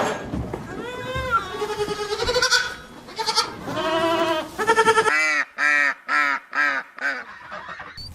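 Goats bleating: a few longer, wavering calls, then a run of about six short bleats in quick succession in the second half.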